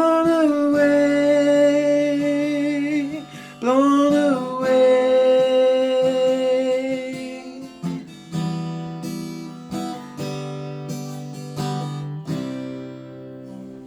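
Voice and guitar ending a song. The singer holds two long notes, each sliding up into pitch, over a ringing guitar chord. Then the guitar strums a few closing chords, and the last one rings out and fades.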